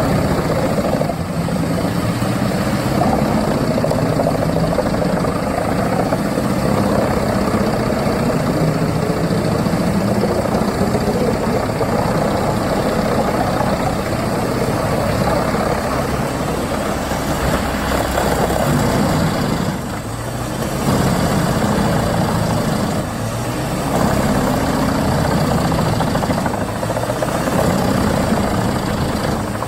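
Large crane-fed drum wood chipper running steadily under load, its engine and chipping drum making a continuous loud din as logs are fed in. The noise dips briefly a few times in the last third.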